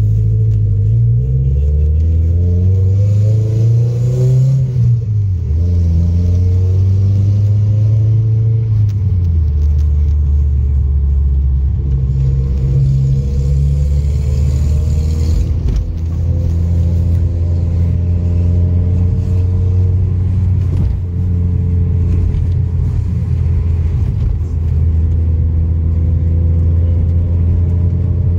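Subaru WRX's turbocharged flat-four engine heard from inside the cabin as the car accelerates. The engine rises in pitch, drops at a gear change about four seconds in, and rises again. After about ten seconds it settles into a steady drone, with small changes in speed.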